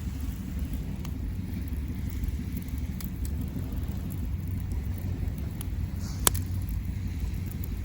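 Surf breaking on a sandy beach as a steady low rumble, with a wood campfire crackling in scattered pops and one sharp pop about six seconds in.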